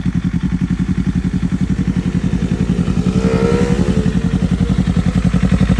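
Motorcycle engine with an aftermarket M4 exhaust idling in a steady, even pulse. A brief tone rises and then falls in the middle.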